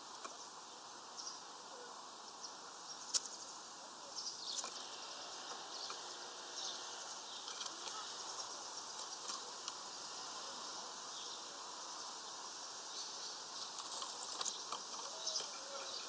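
Faint outdoor ambience with scattered thin, high chirps and ticks from small birds at a feeder, and one sharp click about three seconds in.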